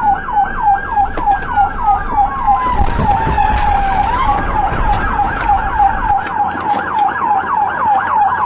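Police car siren in a fast yelp, about four sweeps a second. A second siren wails slowly down and back up in the first half, over a low engine and road rumble that drops away about six seconds in.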